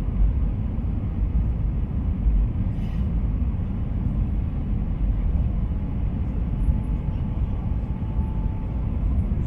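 Steady low rumble of an Airbus A320 as heard inside the passenger cabin, heaviest in the bass and without any distinct events.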